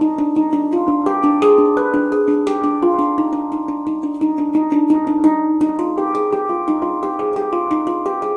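Meraki handpan played by hand in an Arabic-flavoured scale (C Hijaz-type: C D Eb F G Ab B): a quick stream of struck notes that ring and overlap, with a steady low tone underneath.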